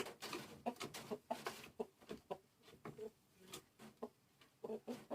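Bangkok chicken clucking in a run of short, irregular clucks.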